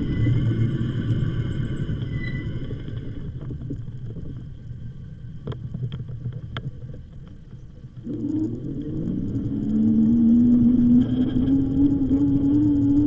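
Riding an electric bike: wind and tyre rumble fading as the bike slows, a few sharp clicks in the middle, then a motor hum that starts about eight seconds in and slowly rises in pitch as the bike picks up speed.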